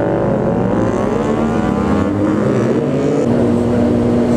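Motorcycle engine running under way, its pitch dipping and then climbing from under a second in, and holding steady near the end.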